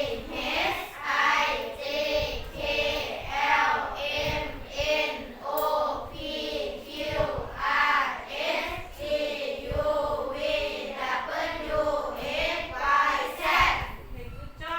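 A group of children singing in unison: short sung syllables in an even, steady rhythm.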